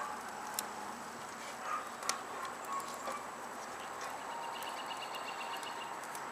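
Wood fire burning: sharp crackles and pops over a steady hiss, the loudest pops about half a second and two seconds in. A faint, fast, high trill sounds briefly near the end.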